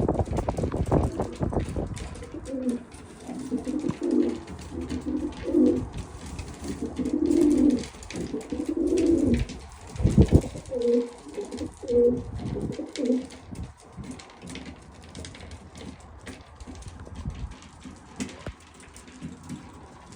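Homing pigeons cooing, a string of repeated low coos over the first thirteen seconds or so, then fading out; courtship cooing in the loft. A few low thumps come near the start and again about ten seconds in.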